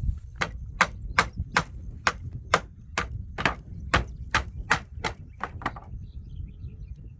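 Hammer driving into wooden planks: about fifteen quick, sharp blows at two to three a second, stopping about two seconds before the end.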